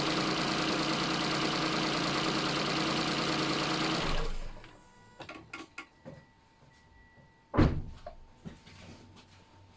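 1KR three-cylinder petrol engine running steadily with the knocking that the owner holds to be normal for it, then shut off about four seconds in. Scattered light clicks follow, and one loud thump comes a few seconds after the engine stops.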